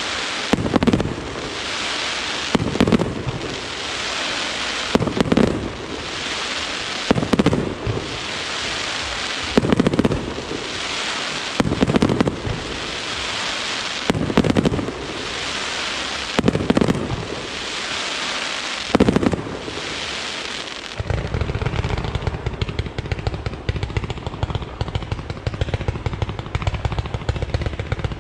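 Fireworks display: a heavy bang about every two seconds, each trailed by a long crackling hiss from the bursting effects. About three-quarters of the way through, this gives way to a rapid, unbroken string of sharp reports.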